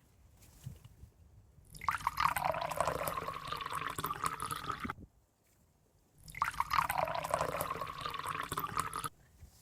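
Water being poured into a container in two pours, each about three seconds long, with a short pause between them.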